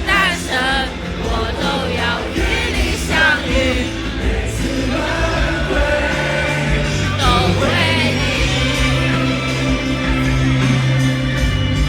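Live rock-band music played loud over stadium speakers. Wavering singing voices come in the first few seconds and again around the middle, over long held bass notes.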